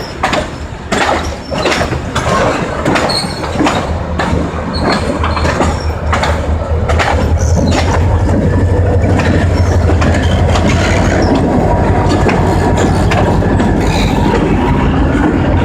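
A train passing on the rails: cars clattering over the rail joints in quick irregular clacks, then a steady low engine drone that builds from about halfway and stays loud.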